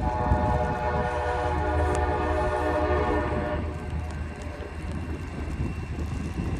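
Diesel freight locomotive's air horn blowing one long chord for about three and a half seconds, sounding for the grade crossing, then cutting off, leaving the locomotive's low engine rumble.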